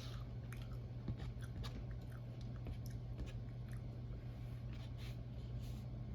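Close-miked chewing of a mouthful of pancakes: irregular small wet mouth clicks and smacks, over a steady low electrical hum.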